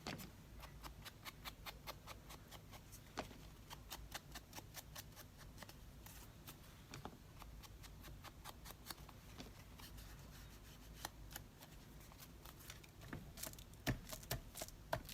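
Many small, irregular clicks, taps and light rubs of hands working paper and small craft tools on a desk, a few sharper taps near the end.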